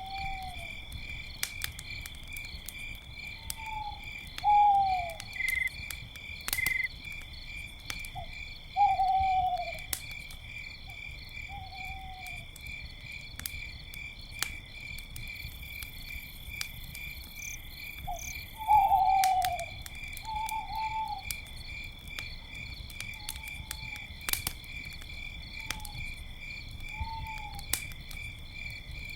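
Night ambience: crickets chirping in a steady pulsing trill, an owl giving short falling hoots about a dozen times (loudest about 4, 9 and 19 seconds in), and a campfire crackling with scattered sharp pops.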